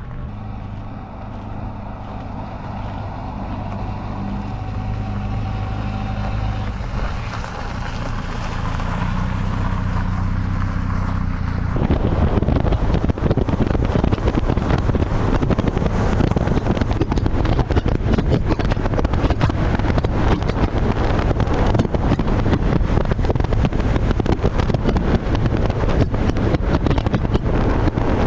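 Classic car's engine running as it drives off, its note shifting in steps. About twelve seconds in, the sound changes abruptly to heavy wind buffeting the microphone over the engine at road speed.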